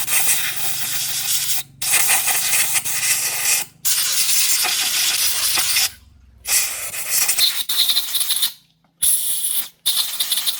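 Pressurised spray hissing in six bursts of one to two seconds each, cut off sharply between bursts, with a faint low hum under the first few.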